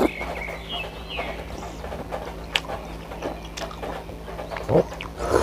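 Close-miked eating sounds: chewing with sharp mouth clicks and smacks, and a louder wet smack near the end.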